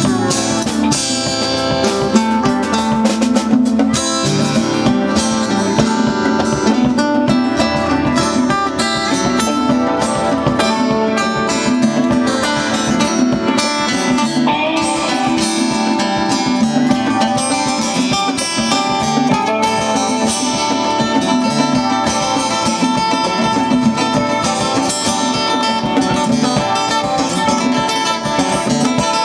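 Live band playing an instrumental rock jam: guitars over a steady drum beat.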